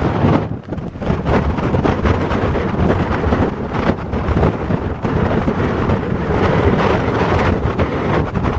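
Strong typhoon wind buffeting the microphone, a loud rumbling roar that surges and eases in gusts.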